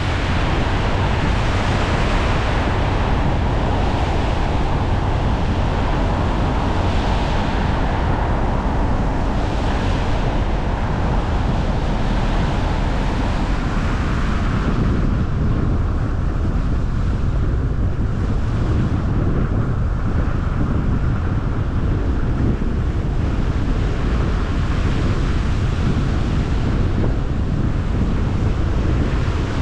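Steady road noise of a car on the move: low rumble with tyre and wind hiss over it, the higher hiss easing about halfway through.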